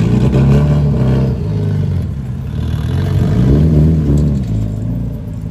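Car engine revving at a car meet: the revs climb and fall back twice.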